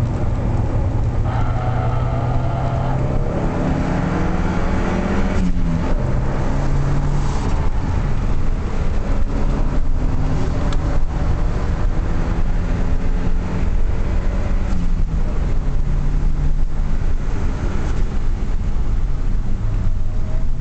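Lancia Delta 8-valve's turbocharged four-cylinder engine heard from inside the cabin at track pace. The revs climb for about five seconds and drop sharply at a gear change, then hold fairly steady with a few short dips, over constant road and wind noise.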